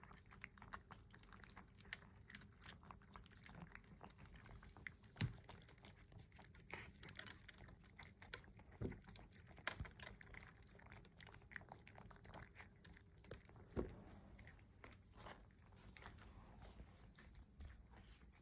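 Cats eating, faint chewing with many short, irregular clicks from their food and bowls.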